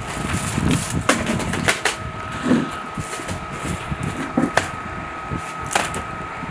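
A few sharp clicks and knocks, as of things being handled, over a steady faint hum and jumbled low background noise.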